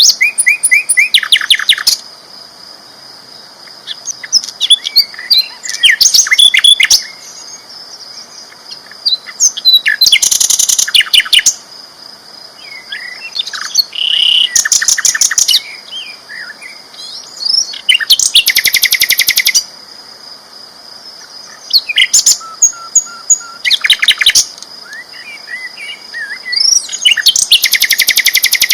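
Sikatan londo flycatcher singing loudly: bursts of fast, rattling high trills a second or two long, repeated every few seconds, with shorter chirps in between.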